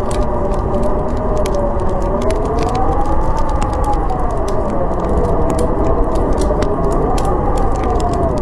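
Howling blizzard wind, a wavering whistle that slowly rises and falls over a steady rush, with the scattered crackle of a wood fire on top.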